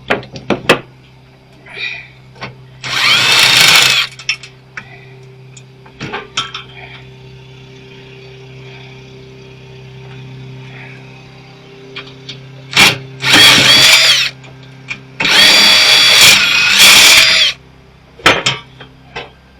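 Cordless drill-driver run in three short bursts, each spinning up to a steady whine, backing screws out of the welder's casing. Metal clicks and knocks from parts being handled fall between the bursts.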